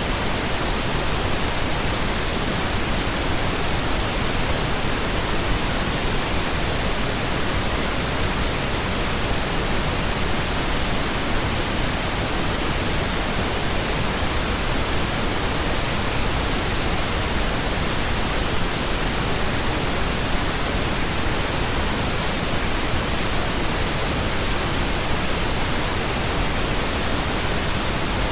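Pink noise: a steady, even hiss spread across all frequencies, with no change or break.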